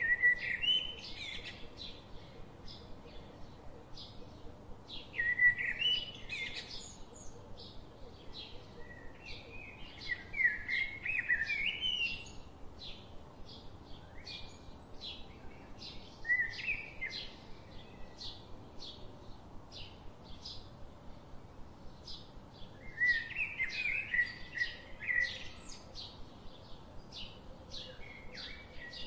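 Birds chirping: one short, high chirp repeated about twice a second throughout, with louder bursts of warbling song every few seconds.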